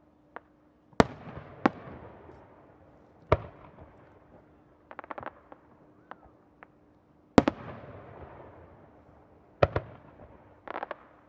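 Aerial firework shells bursting in the sky: a series of sharp bangs, the loudest about a second in and again at about seven seconds, each trailed by a long fading echo. Between them come smaller bangs and quick runs of crackling pops, about five seconds in and near the end.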